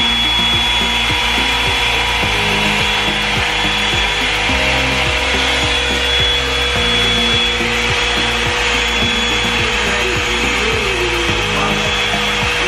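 Revlon One-Step Hair Dryer & Volumizer, a round hot-air brush, running steadily with a steady high motor whine and a rushing airflow, its bristles rubbing through hair. Background music with slow chord changes plays underneath.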